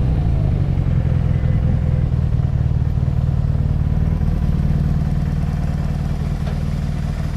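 BMW R nineT's air/oil-cooled boxer twin engine running at a low, steady note, easing off slightly near the end.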